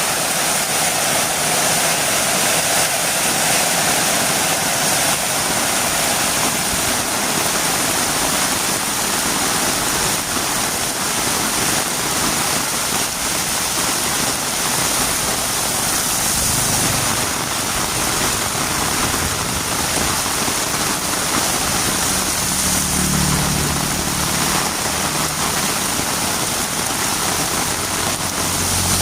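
Heavy rain falling steadily, a loud even hiss. From about halfway through, a low hum like a motor joins underneath.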